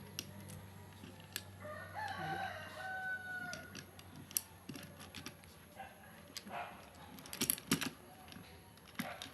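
A rooster crowing once, a drawn-out call of about two seconds starting about two seconds in. Scattered sharp clicks and knocks sound around it, loudest about seven and a half seconds in.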